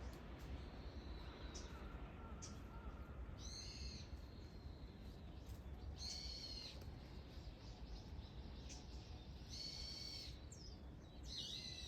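A wild bird calling four times: short, high-pitched calls a few seconds apart, over a steady low hum.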